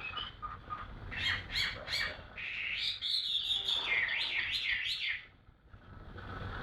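Caged wild-caught songbird calling: a few short sharp notes, then a longer warbling phrase that wavers up and down in pitch and stops about five seconds in.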